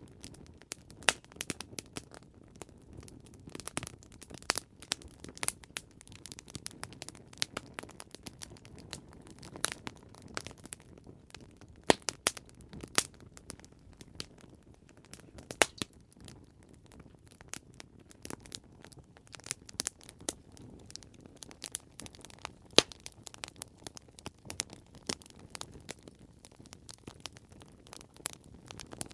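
Wood campfire crackling: irregular sharp pops and snaps, several a second, over a soft low hiss of burning.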